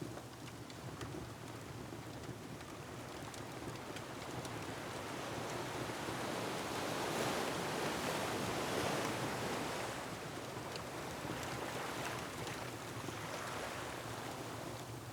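Ocean surf over a steady rush of wind, one wave swelling to a peak about halfway through and then easing off. Small scattered clicks of a crackling wood fire run through it.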